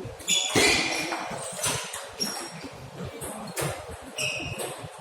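Table tennis ball clicking sharply off paddles and table in a rally, several quick ringing pocks spread over a few seconds, over a murmur of hall noise.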